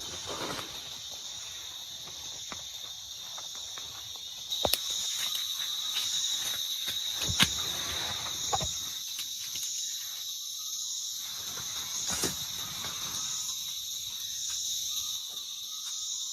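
Jungle insect chorus: a steady high-pitched buzz with a second, higher layer swelling and fading about once a second, which grows louder about four and a half seconds in. Scattered sharp clicks and snaps sound over it.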